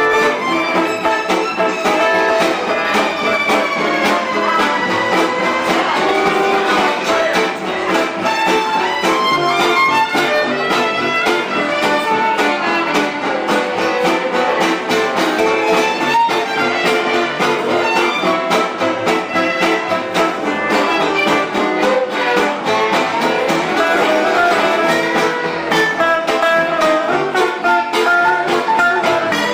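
Live band music, loud and continuous.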